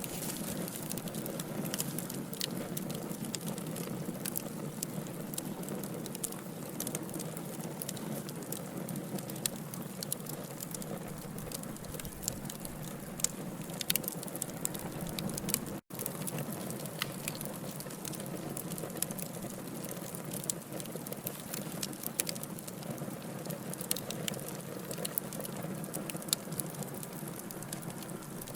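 Wood fire burning: logs crackling with frequent sharp, irregular pops over a steady low hiss of flame. The sound drops out for a split second about halfway through.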